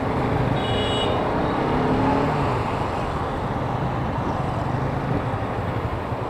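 Bajaj Pulsar RS200's single-cylinder engine running at low speed in slow, crowded traffic, with the surrounding traffic's engines around it. A short high tone sounds about a second in.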